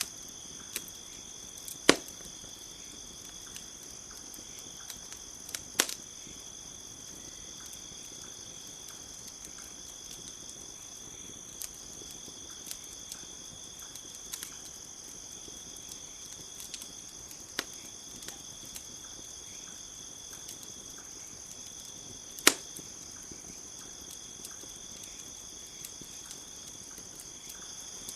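Campfire crackling with scattered small ticks and three loud, sharp pops, over a steady high trill of crickets.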